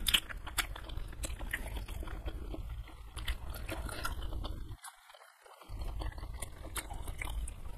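Close-miked chewing of a mouthful of kikil, chewy beef skin in curry, with many wet mouth clicks and smacks over a low hum. The chewing stops for about a second just past the middle, then resumes.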